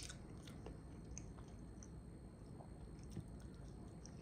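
Faint mouth sounds of a person chewing stuffed collard-green rolls: soft, wet, scattered clicks and smacks, with a sharper click right at the start.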